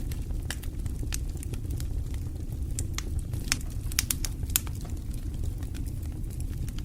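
Wood fire burning in a fireplace: a steady low rumble with irregular sharp crackles and pops, a few louder pops a little past the middle.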